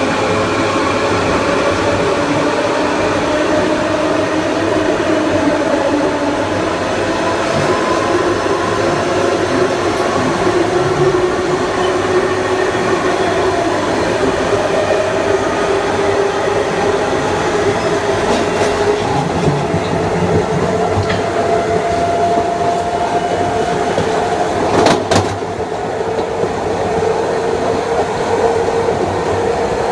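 Kawasaki M9 electric multiple unit running, heard on board: the Mitsubishi IGBT-VVVF inverter and AC traction motors whine in several slowly shifting tones over steady wheel and track noise. About 25 seconds in there is a sharp crack, and the sound dips briefly.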